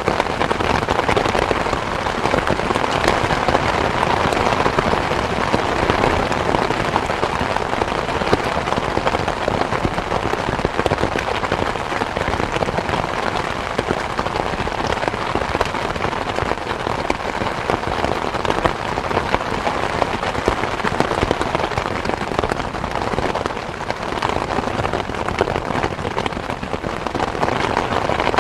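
Steady rain, an even hiss made of many fine drop impacts on a surface, with no let-up or change in strength.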